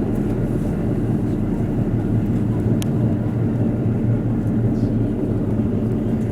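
KiHa 85 diesel railcar running at speed, heard from inside the train: a steady low engine and wheel rumble, with a single sharp click about three seconds in.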